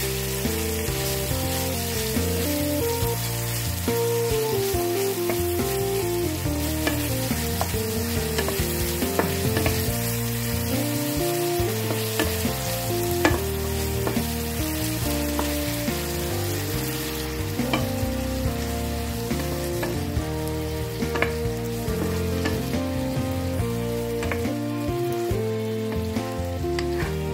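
Sliced onion, garlic and chicken pieces sizzling in oil in a nonstick frying pan, stirred with a wooden spoon that clicks and scrapes against the pan now and then.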